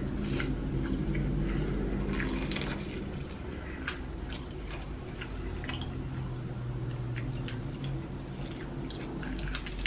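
Two people chewing fried chicken drumsticks: scattered, irregular mouth clicks and smacks, over a low steady hum.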